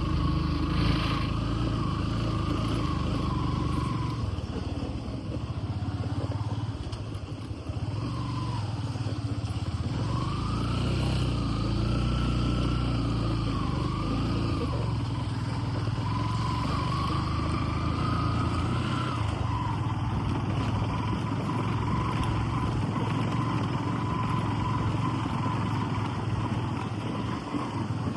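A motor vehicle's engine running steadily while on the move, with road noise and a faint whine that rises and falls in pitch.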